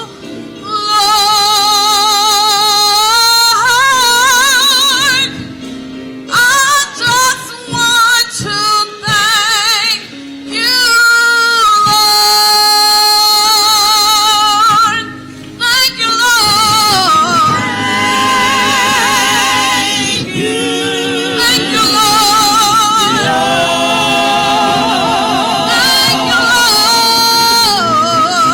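Gospel singing: a solo female voice singing held, wavering notes with vibrato, over instrumental accompaniment, with a few short breaks between phrases.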